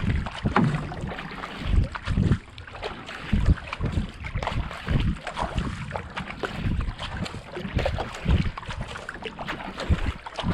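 Kayak paddle strokes splashing and pulling through the water in a steady rhythm at a paced 70 to 80 strokes a minute, with wind buffeting the camera microphone.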